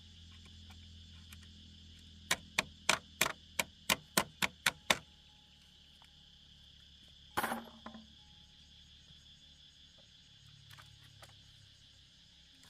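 A hand tool striking wood in about ten quick, sharp blows, roughly four a second, then a single heavier knock with a short scrape a few seconds later. Insects chirr steadily throughout.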